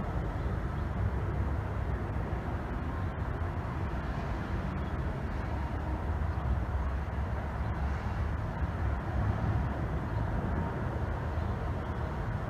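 A steady low rumble: deep, even noise with no clear tone or rhythm, holding level throughout.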